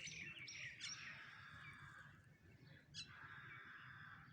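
Faint outdoor birdsong: several birds giving short chirps and whistles that overlap, with a brief lull about two seconds in.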